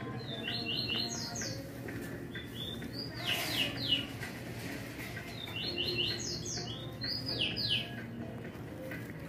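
Small bird singing: two phrases of quick, high chirps ending in downward-slurred notes, the second about five seconds after the first, over a low steady background hum.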